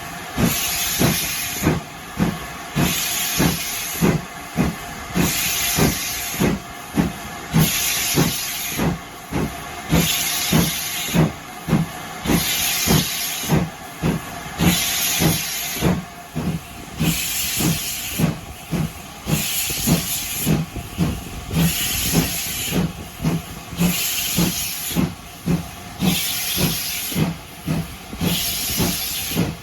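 Steam locomotive working steadily, with a regular beat: a loud hiss of steam about once a second over a faster low chuff.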